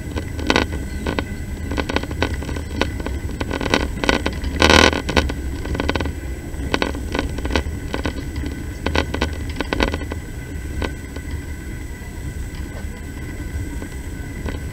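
Passenger train running, heard from inside the carriage: a steady low rumble with irregular clicks and rattles of the wheels and carriage, and a louder burst of clatter about five seconds in.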